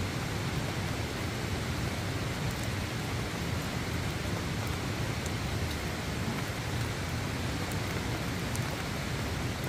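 Steady spring rain pattering down, an even hiss that does not change.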